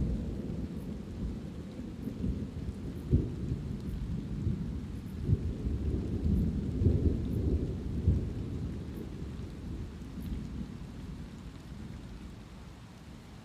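Rolling thunder rumbling over light rain, with several sharper cracks in the middle before the rumble fades away near the end.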